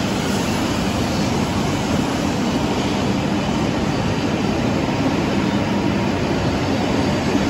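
E7 series Shinkansen train pulling out of the platform and gathering speed past the listener: a steady rush of running noise with a faint low hum.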